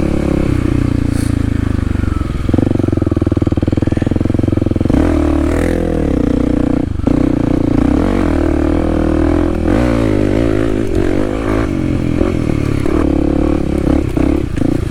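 Kawasaki KLX300's single-cylinder four-stroke engine running at low revs as the dirt bike is ridden slowly, its pitch wavering up and down with the throttle in the middle, with a few knocks.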